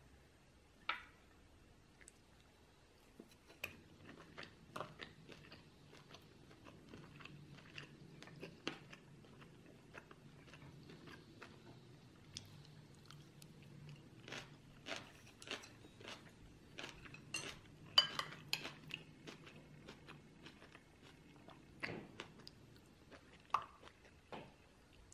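Faint chewing and biting of Korean fried chicken, with many scattered sharp clicks and crunches that are loudest about 18 seconds in.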